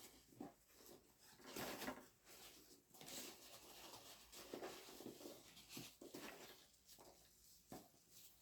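Faint rustling and a few light knocks from items being handled and packed back into a box.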